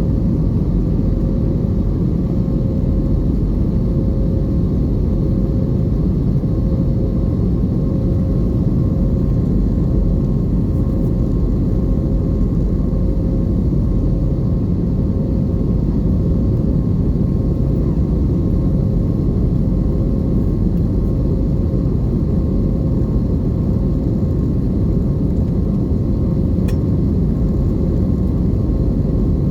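Steady cabin noise inside an Airbus A320 airliner: an even low roar from the jet engines and airflow, with a steady hum running through it and one faint tick near the end.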